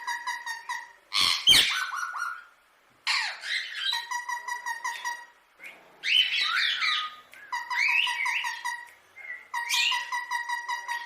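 Indian ringneck parakeet calling: bursts of rapid, evenly repeated chattering notes, about seven a second, alternating with harsher gliding squawks.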